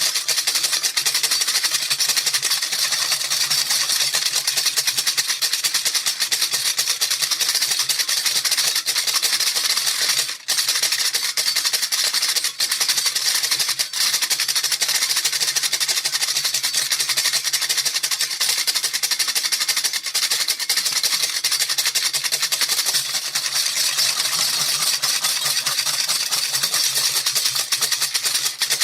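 A hand rattle shaken fast and without pause, a steady dense shaking clatter, with a momentary break about ten seconds in.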